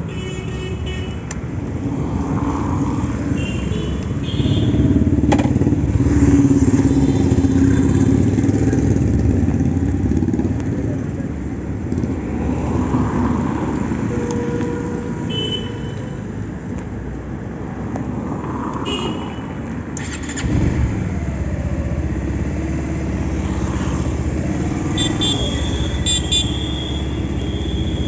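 Motorcycle riding in traffic, with steady engine and road noise throughout and short high-pitched beeps several times.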